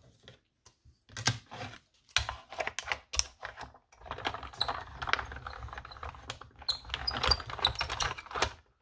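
Sharp clicks and rustles of a thin metal cutting die and paper being handled. From about four seconds in comes a steady low hum with crackling, as an electric die-cutting machine draws the plate through to cut a second leaf shape.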